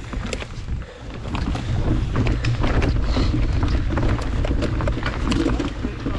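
Mountain bike riding over a rough trail: wind buffets the microphone over a low rumble from the tyres, with many quick rattles and clicks from the bike.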